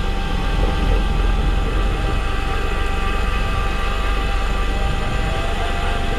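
Fishing boat's engine running steadily, a constant drone with a deep rumble underneath.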